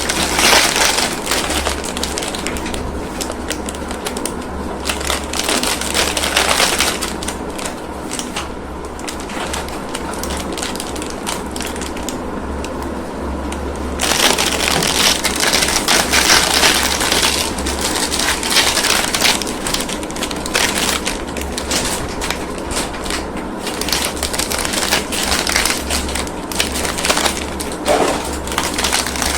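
Plastic packaging and sweet wrappers crinkling and crackling continuously as they are handled and opened.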